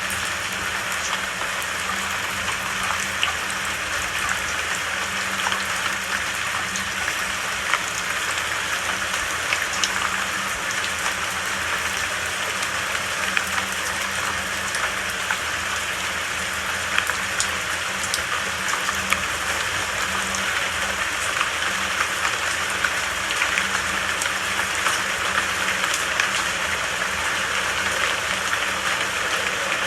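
Steady rain falling, a continuous hiss of rainfall with many small drop ticks scattered through it.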